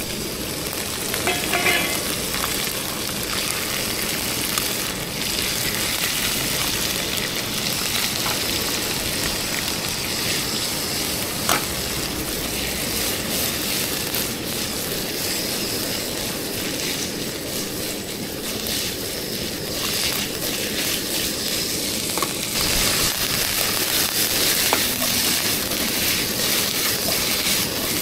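Sliced beef sizzling and frying in a hot wok with ginger, garlic and carrot, with a few sharp clicks now and then. The sizzle grows louder near the end.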